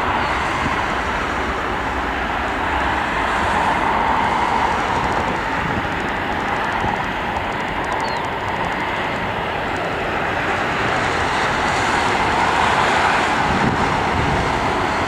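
Boeing 737-300's CFM56 turbofan engines running at low taxi power, a steady rushing noise that swells and eases slightly.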